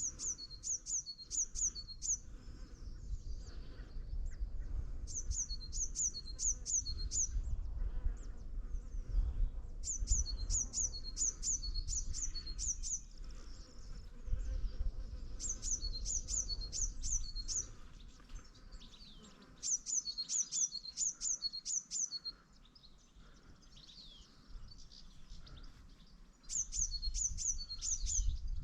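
A small songbird singing a short phrase of rapid, high, evenly spaced notes, repeating it about every four to five seconds, over a low steady rumble.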